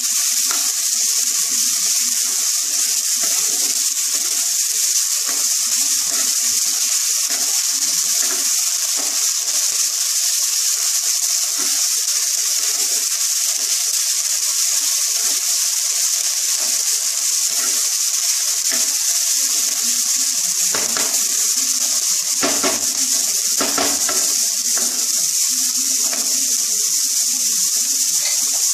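Soya mince and chopped vegetables sizzling steadily in a non-stick frying pan, stirred with a wooden spatula that scrapes the pan a few times near the end.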